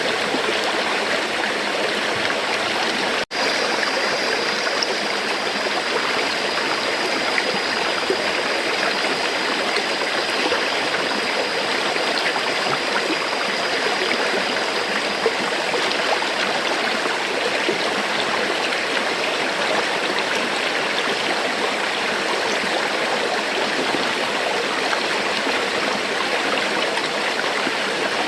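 River water flowing in a steady, even rush. The sound cuts out for a split second about three seconds in, like an edit seam in the loop.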